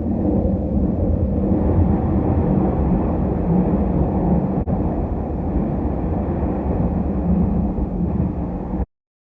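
Hanshin Railway electric train running, heard from inside the passenger car: a steady low rumble of wheels and motors. It cuts off abruptly near the end.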